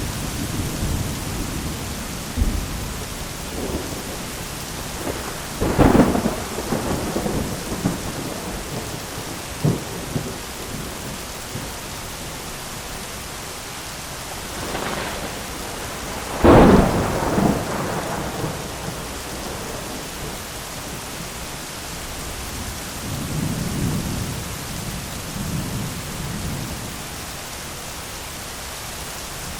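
Heavy rain falling steadily on an umbrella during a thunderstorm, with two loud thunderclaps, one about six seconds in and one about midway, smaller cracks between them, and low rolling rumbles later on.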